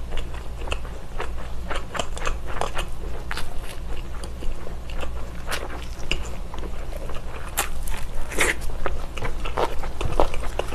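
Close-miked chewing and biting of baked slab bacon: a dense, irregular run of crunches, crackles and mouth clicks.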